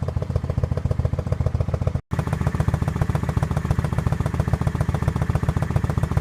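Kawasaki Vulcan 900's V-twin idling steadily with an even, loud pulsing through mufflers that have had their baffles cut and drilled out. Its sound is broken by a split-second dropout about two seconds in.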